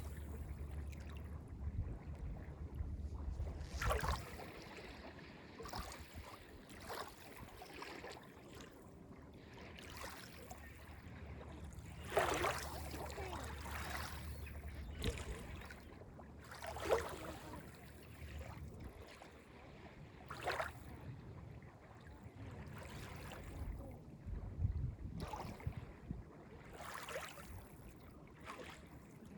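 Small lake waves lapping and splashing on the beach, one wash every two to four seconds, some larger than others. A low steady rumble runs underneath and fades out about halfway through.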